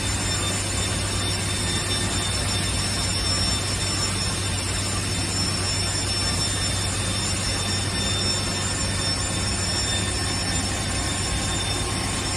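Steady mechanical drone: a constant low hum with several thin, high whining tones over an even rushing noise, unchanging throughout.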